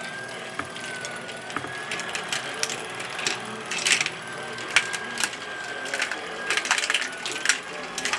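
ROKR wooden marble run running under its motor: a steady, slightly wavering whine from the drive, with marbles clicking and clattering along the track at irregular intervals.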